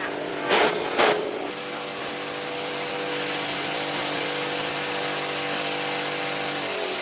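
Two sharp knocks about half a second apart, then a motor runs steadily at one even pitch for several seconds.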